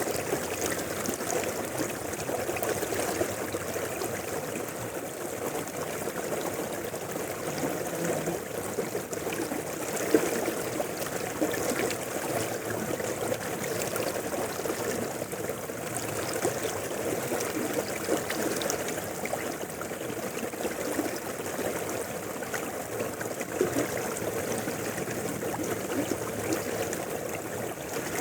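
River water flowing steadily over rocks, rushing and gurgling, with small splashes.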